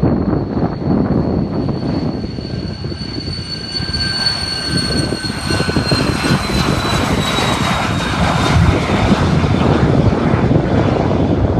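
Airliner passing close by: a steady engine rumble with a high whine that drops in pitch about halfway through as it goes by, growing louder toward the end.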